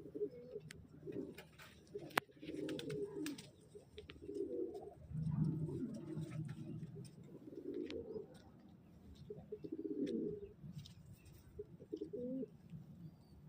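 Domestic pigeons cooing, call after call every second or two, with a few sharp clicks and taps between them.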